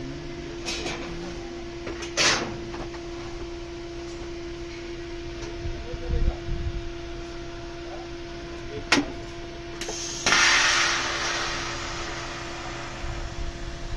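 A steady machine hum with a few sharp clicks. About ten seconds in comes a loud hissing burst that fades over about two seconds.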